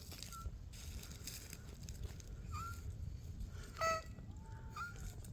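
Birds chirping: short, separate chirps every couple of seconds, with one louder, clearer call a little before the end, over a low outdoor rumble.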